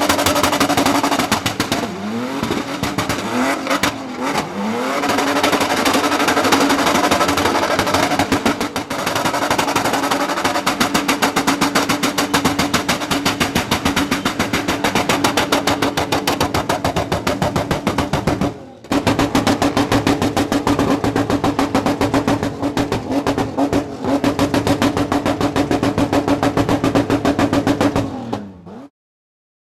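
Car engine revving hard with a rapid stuttering pulse, its pitch rising and falling a few times early on and then held high, with a brief drop about two-thirds through; it cuts off suddenly near the end.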